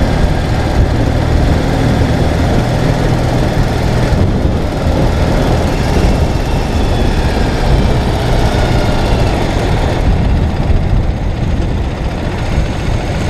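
Ural sidecar motorcycle's boxer-twin engine running steadily, a low hum under a steady rush of noise.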